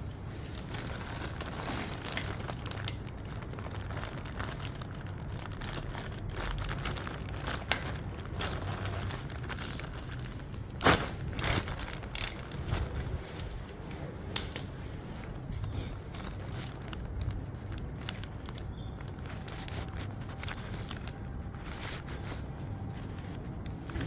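Handling noises: crinkling with scattered sharp clicks and knocks, the loudest cluster about eleven seconds in, over a low steady hum.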